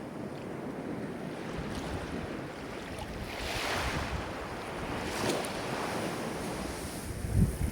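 Ocean waves washing in, with one wave breaking about three and a half seconds in and a smaller one about five seconds in. Wind rumbles on the microphone near the end.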